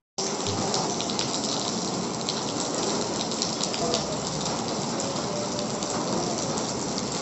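Steady rain falling into shallow standing water on paved ground: an even hiss dotted with many small drop splashes.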